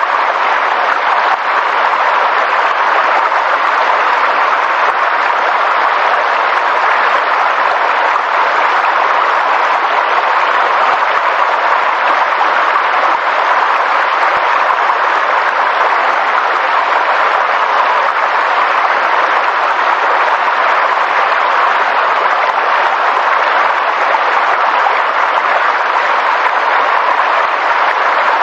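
Steady rush of water, an even noise holding the same level throughout with no distinct events.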